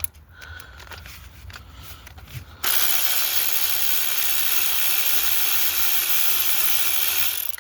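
Handheld power tool running steadily for about five seconds, starting and stopping abruptly, to undo a fastener. Light tool-handling clicks come before it.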